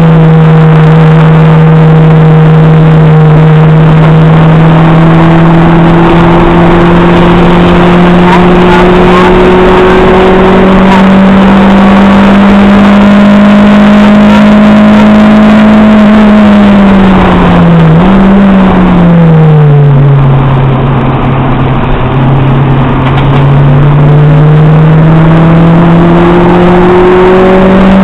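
Acura RSX Type-S's K20A2 2.0-litre four-cylinder engine, heard loud from inside the cabin during hard track driving. The engine note climbs slowly for over half the time, then drops sharply with a brief blip as the driver comes off the throttle. It holds low for a few seconds and then climbs again under acceleration near the end.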